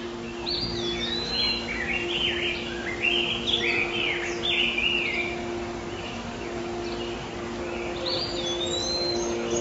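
A songbird singing a quick run of whistled notes that slide up and down for about five seconds, then a shorter phrase near the end. A steady low hum sits under it.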